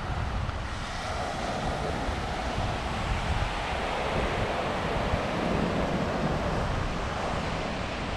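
Sea waves washing onto a sandy beach, a steady surf wash, with wind buffeting the microphone in a low rumble.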